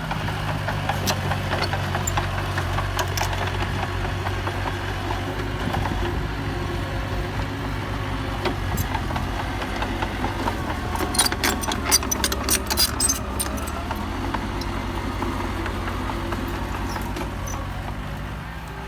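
Mini Komatsu bulldozer's engine running steadily. A quick run of metallic clanks and rattles comes about eleven to thirteen seconds in.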